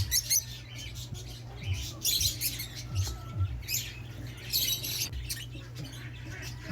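Caged lovebirds and parakeets chattering in several short bursts of high chirps and squawks, over a steady low hum.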